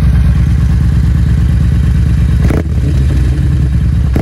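Yamaha Bolt's air-cooled V-twin running, its exhaust giving a pulsing low rumble as the throttle is worked. About two and a half seconds in there is a short sharp crack, after which the engine note briefly drops.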